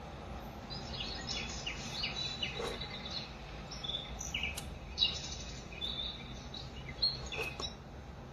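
Birdsong nature sound played from a Dreamegg Pocket Sleep 1 mini white noise machine: repeated bird chirps and short trills over a steady low background hiss.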